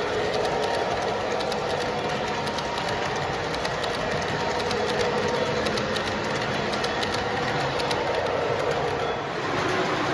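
Model train running on the layout track: a steady rolling hum with quick, uneven clicks of wheels over the rail joints. The clicking stops shortly before the end.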